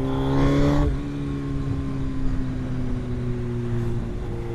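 Suzuki GSX-R1000 inline-four motorcycle engine heard while riding. The revs climb for about a second, drop sharply, then hold a steady cruise with a low wind rumble underneath.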